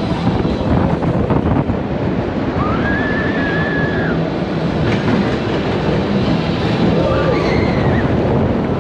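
Roller coaster train running along its track, a loud steady rumble and rattle of wheels on steel rail, with a couple of high drawn-out squeals over it, the first about three seconds in and another near the end.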